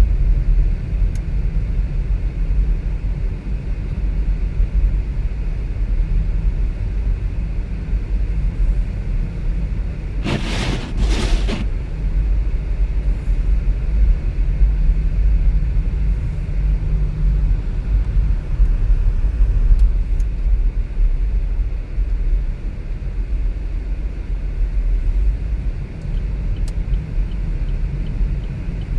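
Steady low rumble of a car driving on a road, with a short two-part burst of hiss about ten seconds in.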